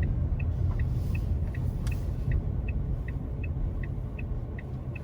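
Car road and engine rumble heard from inside the cabin, slowly fading, with the turn-signal indicator ticking steadily about two and a half times a second. A single brief click sounds about two seconds in.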